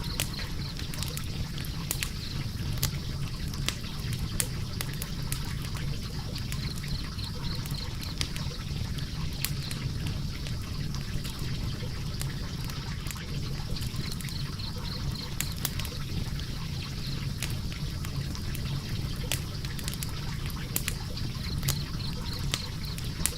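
Logs burning in a fireplace: a steady low rush of flame with frequent sharp crackles and pops scattered irregularly throughout.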